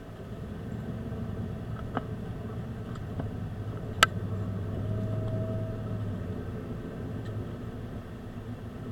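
A car engine running. It grows louder over the first few seconds and eases off near the end, with a sharp click about four seconds in.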